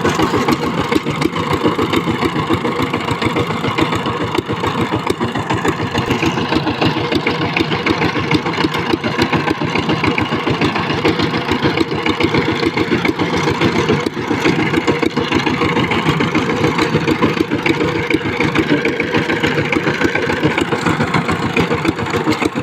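Walk-behind power tiller's engine running steadily at idle, with a fast, even chugging.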